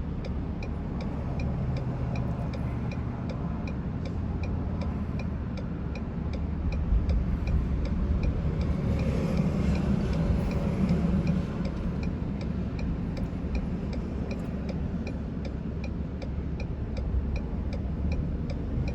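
A car's indicator clicking steadily, a little over two clicks a second, over the low rumble of an idling vehicle and traffic. The rumble swells for a few seconds around the middle.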